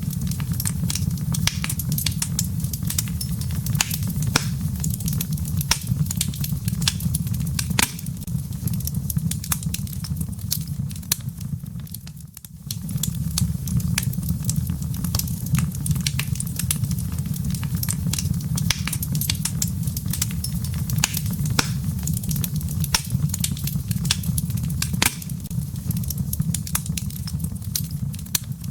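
Wood fire burning in a fireplace: a steady low rumble of flames with frequent sharp crackles and pops of burning firewood, briefly dipping in level about twelve seconds in.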